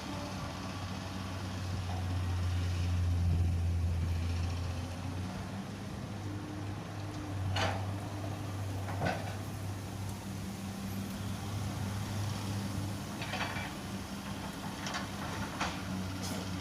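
Heavy diesel engine running steadily at a low hum, swelling a little a few seconds in, with about six short sharp knocks in the second half.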